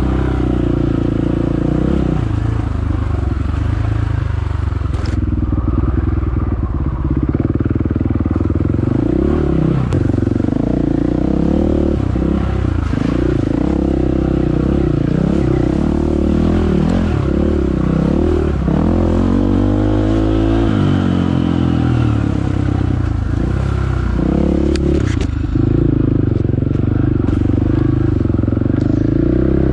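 Dirt bike engine under way on a trail, its revs rising and falling continuously with the throttle, with a few sharp knocks along the way.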